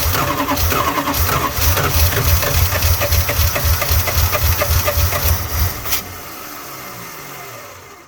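1986 Dodge Ramcharger engine cranking over on its starter in an even rhythm without catching, the mechanical fuel pump still trying to draw fuel from the tank up to the filter and freshly installed carburetor. The cranking stops about six seconds in, and a quieter steady sound then fades out near the end.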